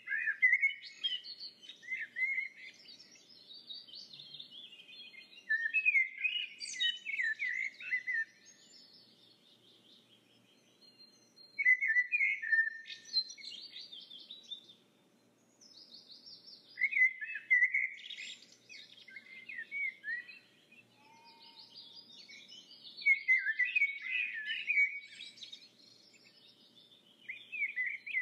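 Birds chirping and singing in quick twittering phrases a few seconds long, separated by short pauses.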